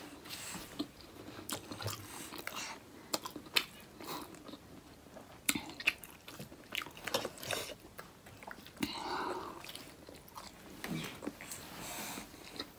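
Close-up chewing and mouth sounds of someone eating momos: irregular wet smacks and clicks of lips and tongue.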